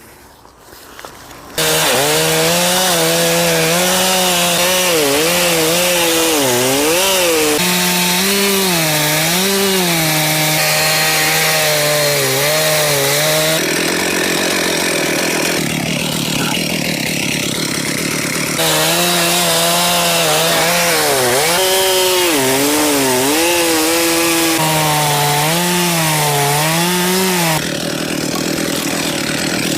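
Chainsaw cutting through a big log, starting about a second and a half in. The engine runs at high revs, and its pitch dips and rises again and again as the chain bites into the wood.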